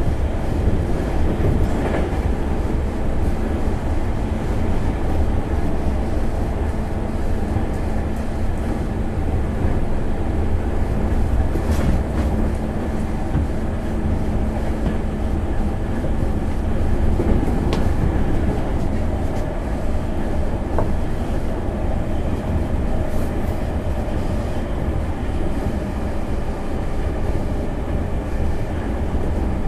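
Running sound inside a JR 205 series 5000-subseries motor car (MoHa 205-5029) under way: a steady rumble of wheels on rail with a few sharp clicks over rail joints, and a steady motor hum that fades out a little past halfway.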